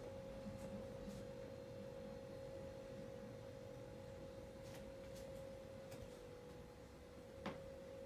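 A steady single-pitched hum, with faint ticks and one sharp click near the end.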